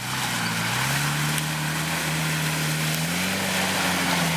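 A 4x4's engine pulling hard through mud, its pitch climbing about three seconds in, over a steady rushing hiss.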